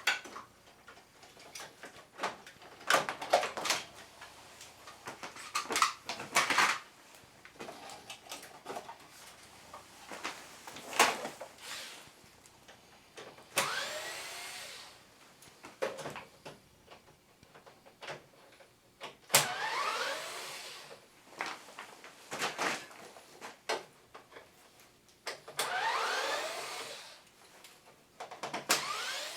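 A small hand-held power tool, such as a cordless screwdriver, runs in three short bursts, each rising in pitch as it spins up, amid clicks and knocks of plastic air-conditioner panels and parts being handled and unscrewed.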